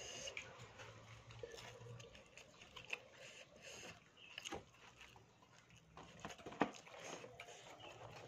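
Faint chewing of a mouthful of fried grasshoppers and rice, with a few small clicks.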